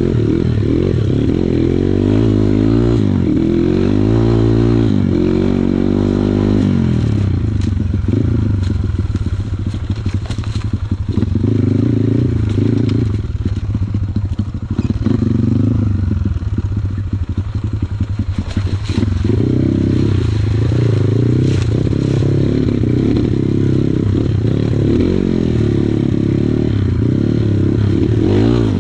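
Kawasaki KLX140 single-cylinder four-stroke dirt bike engine, throttle rising and falling as it rides a rough trail. Through the middle of the stretch the engine eases off and the bike clatters and knocks over rough ground, then picks up again.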